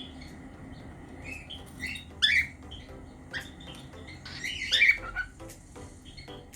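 Cockatiel chirping in a string of short, gliding calls, loudest about two seconds in and again near five seconds, with faint ticks toward the end.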